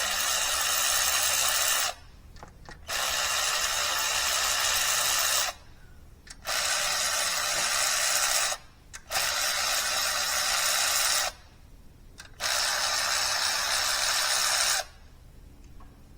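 Handheld power tool, drill-type, running in five bursts of about two seconds each with short pauses between them.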